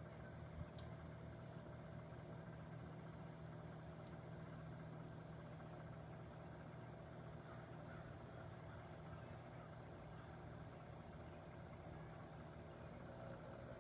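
Microwave oven running with a steady low hum, heating a plastic laser tag toy that is starting to melt. There is a faint click about a second in.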